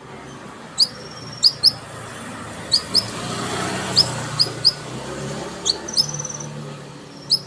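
Domestic canary calling in short, sharp high chirps, mostly in quick pairs or triplets, with a few short held whistle notes between them, over a steady low background noise. The keeper presents it as an over-aroused ('over birahi') bird in heightened breeding condition.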